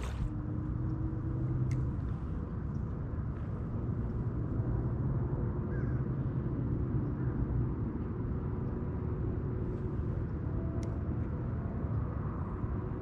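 A boat motor running steadily: a low rumble with a faint, even hum over it.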